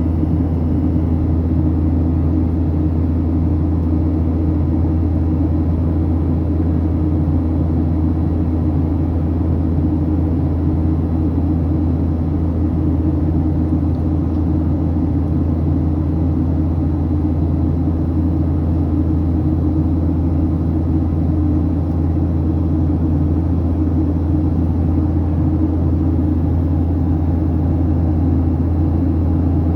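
Steady cabin rumble inside a Boeing 737-800 in flight: the hum of its CFM56 turbofan engines mixed with airflow noise, deep and unchanging.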